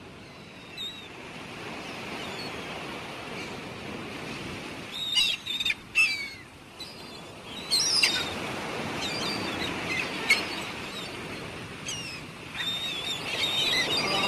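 Birds chirping in short scattered bursts of quick rising and falling calls over a steady background hiss of outdoor ambience.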